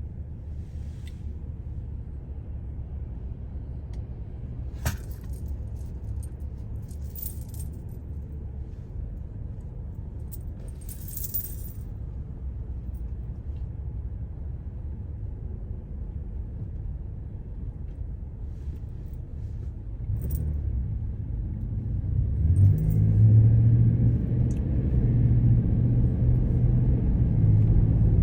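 Steady low engine and road rumble of a moving car heard from inside, with a few light clinks and rattles. It gets clearly louder about twenty seconds in.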